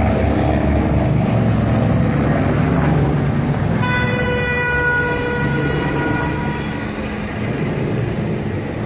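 Road traffic with a steady engine hum; about four seconds in, a single steady-pitched vehicle horn sounds and fades away over two or three seconds.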